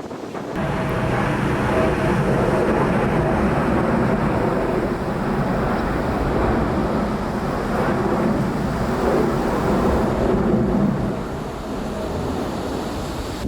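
Jet airliner engines running during a landing approach, a steady rushing noise with a faint tonal whine, with wind buffeting the microphone. It starts abruptly about half a second in.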